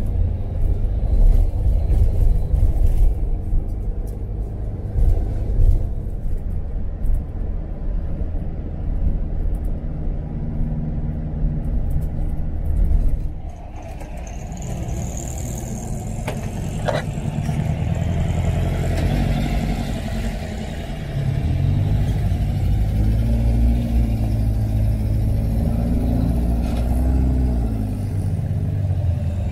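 A car engine running with a steady low rumble; the sound drops and changes character about halfway through, and near the end the engine's pitch rises and falls as it revs.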